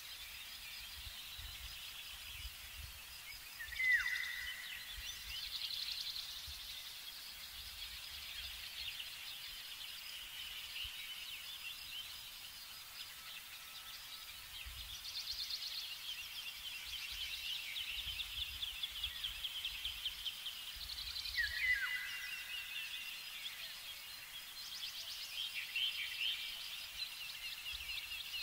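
Spring chorus of small songbirds, several overlapping high trilling songs going on throughout. A louder call holds a short note and then drops steeply in pitch, once about four seconds in and again about three-quarters of the way through.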